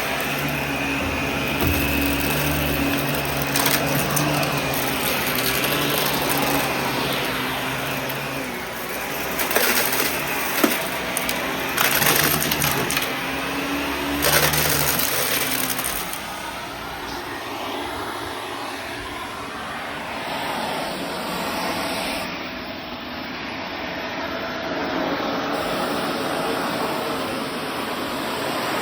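Vacuum cleaner running, with a steady motor hum and a rushing of air, and occasional crackles. The hum changes about halfway through, when its low steady tone drops away.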